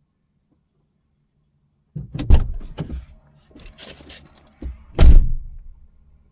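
Car door handling: two heavy thunks about three seconds apart, with smaller knocks and rattles between, over a faint low engine hum.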